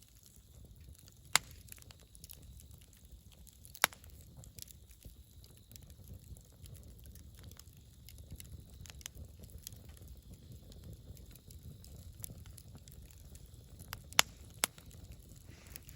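Wood campfire burning: a steady low rumble of flame with frequent small crackles, and four sharp pops, two in the first four seconds and two close together near the end.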